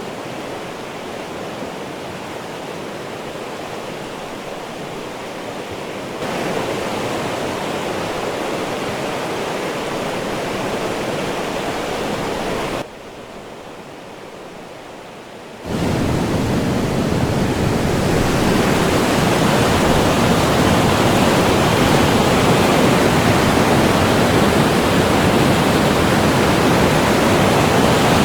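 Rushing white water of the Kolvitsa River's rapids and the Chyorny Padun waterfall, a dense, steady noise. It steps louder about six seconds in, drops back briefly around thirteen seconds, and is loudest and fullest from about sixteen seconds on.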